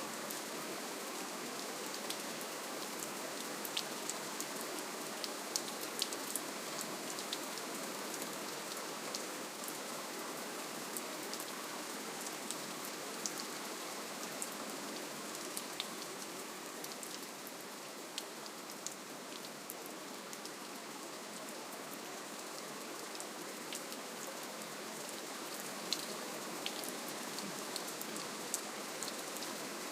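Steady, gentle rainfall: an even hiss of rain with scattered individual drops ticking.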